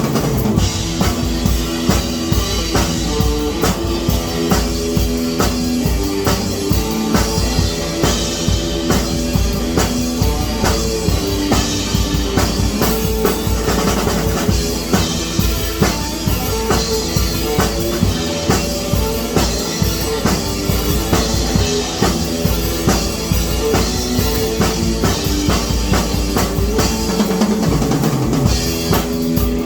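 Music led by a drum kit playing a steady, driving beat, with pitched notes underneath.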